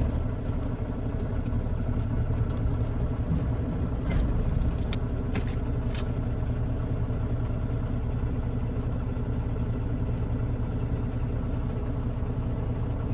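Semi truck's diesel engine idling steadily, with a few faint clicks about four to six seconds in.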